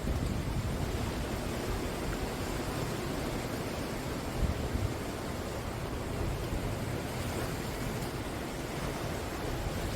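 Sea waves breaking and washing onto the shore in a steady rush of surf, swelling briefly about four and a half seconds in.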